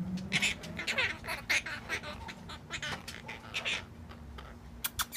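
Quaker parrots (monk parakeets) chattering: a quick run of short, raspy chirps and squawks, several a second.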